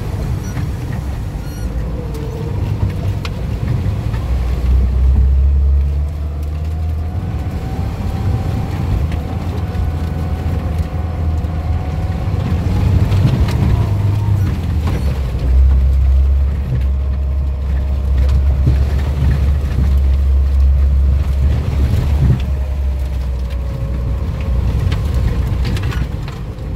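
Off-road 4x4 heard from inside the cabin, driving through mud and water puddles. There is a heavy low rumble, and the engine note rises for several seconds in the middle as it pulls through the deeper water.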